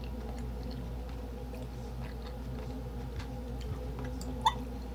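Faint chewing of food with small mouth clicks, over a steady low hum. One brief, sharper sound stands out about four and a half seconds in.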